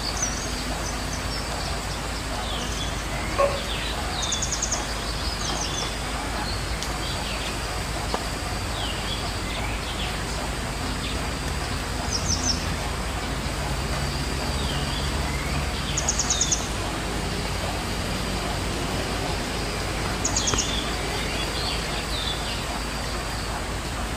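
A songbird calling repeatedly: short, fast, high trills every few seconds between lower whistled notes that sweep downward, over steady outdoor background noise. There is one sharp tap about three seconds in.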